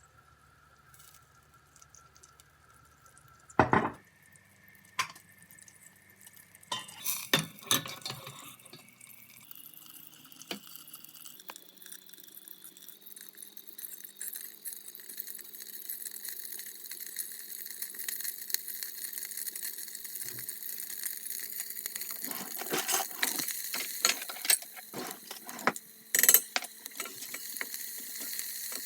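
Kitchen work sounds: dishes and utensils clinking and knocking, with a steady hiss building from about halfway through and more clinks near the end.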